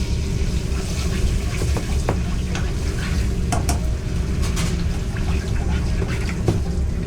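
Food frying in a pan, with short scattered clinks of a utensil stirring it, over a steady low rumble.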